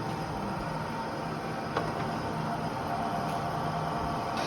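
Clausing Model 2277 drill press running steadily with a steady hum, with a single sharp click a little under two seconds in.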